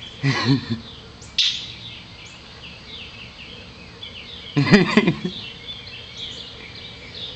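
A wild bird calling, with a run of short, high chirps and two louder, harsher bursts, one just after the start and one a little under five seconds in.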